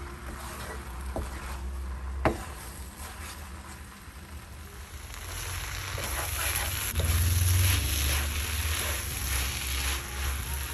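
Sliced okra sizzling as it is stir-fried dry in an uncovered pan, turned with a wooden spatula that scrapes and knocks against the pan, most sharply about two seconds in. The sizzling grows louder past the middle.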